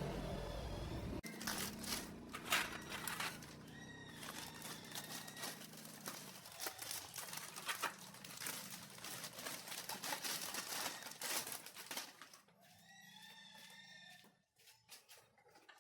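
A small motor hums, then cuts off about a second in, followed by irregular clicks, taps and scraping of hand work on metal parts. A short pitched animal or bird call sounds near the end.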